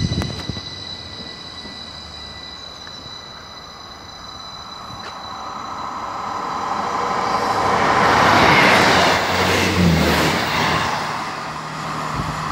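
A Class 333 electric multiple unit pulls away with a high steady whine that fades over the first few seconds. Then a diesel multiple unit passes at speed on the other line, its rush of wheel and engine noise rising to a peak about eight to nine seconds in and easing off as it recedes.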